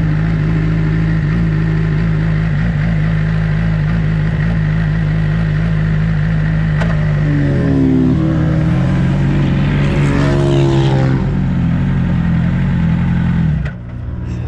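Sport bike engine running at a steady pitch, with a second engine's note sweeping up and down past it midway through; the level drops suddenly near the end.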